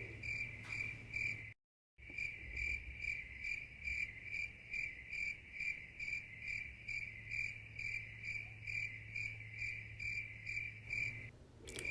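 Cricket chirping sound effect: an even run of short chirps, about three a second, over a faint low hum. It cuts out completely for half a second near the start.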